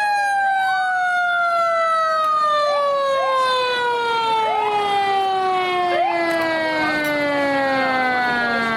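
Fire engine siren winding down, one long tone whose pitch falls slowly throughout, with several shorter rising siren sweeps from another emergency vehicle laid over it. Truck engine and road noise grow near the end.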